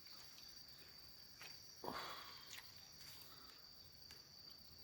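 Faint, steady high-pitched insect trill, with a few soft clicks and one slightly louder knock about two seconds in.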